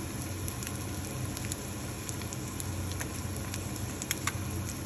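Egg frying in hot oil in a frying pan: a steady sizzle with scattered small pops, and two sharper pops about four seconds in.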